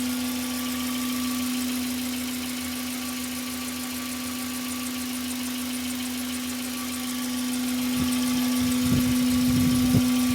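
Hyundai Tuscani coupé engine idling, with a strong steady hum running over it. A few low thumps come near the end.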